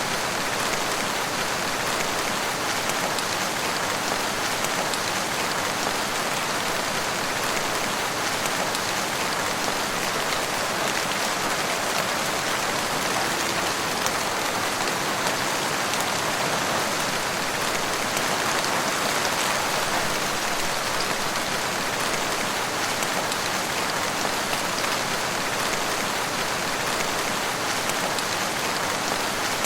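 Steady rain falling in a forest, an even hiss of many drops with no let-up.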